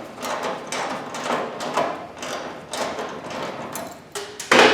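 Irregular scraping, rustling and light knocks of hands and tools working around a car's engine bay, with one louder clatter near the end.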